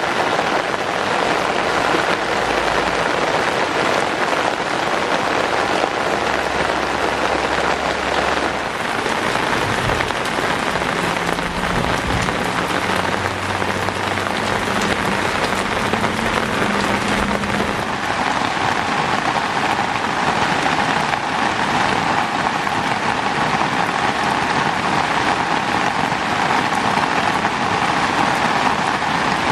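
Steady rain falling on roofs and ground, an even hiss with a fuller midrange patter from about two-thirds of the way through.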